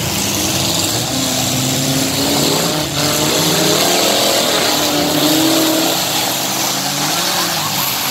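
Several full-size car and truck engines running and revving at once, their pitches rising and falling over one another.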